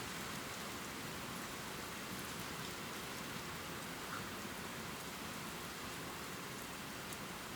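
Steady heavy rain pouring, an even hiss with scattered individual drop ticks.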